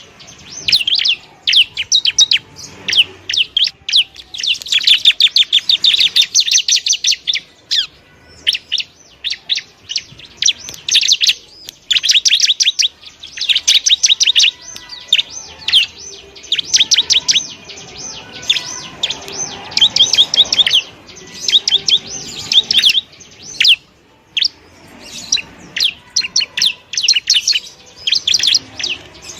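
Bar-winged prinia (ciblek) singing: rapid, high chattering trills in bursts of one to three seconds, separated by short breaks.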